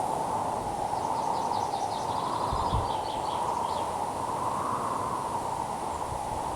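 Wind blowing through a garden, a steady rush that swells and eases slowly, with a bird giving a quick run of short high chirps about a second in.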